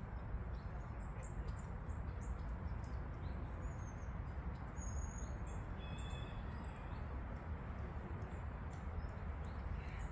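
Small birds chirping with short, high, scattered calls over a steady low outdoor background noise.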